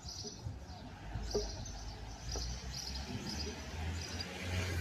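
Small birds chirping, a series of short high chirps repeated every half second to a second, over a low rumble.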